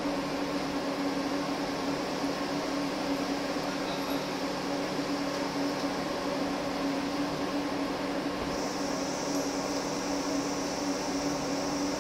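A steady machine hum with a low droning tone and hiss over it. About two-thirds of the way through, a higher hiss comes in and stays.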